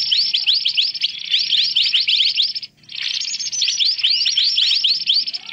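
Mantenan birds chattering noisily, a busy lure call for bird trapping: a dense, rapid stream of high, overlapping chirps, broken once for a moment a little under three seconds in.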